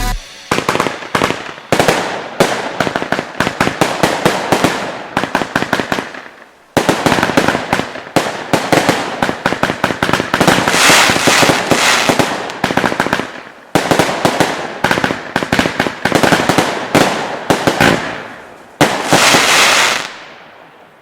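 Weco Blazing Beast firework going off: dense crackling in several runs, each starting suddenly and tailing off, with the last run dying away near the end.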